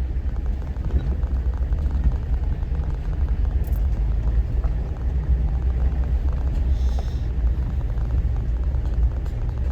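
Jeep driving along a dirt mountain trail: a steady low rumble of engine and tyres.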